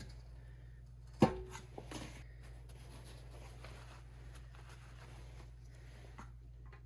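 Handling noises while topping up a small diesel engine with oil: one sharp clank with a brief ring about a second in, then a few light clicks, over a faint steady low hum.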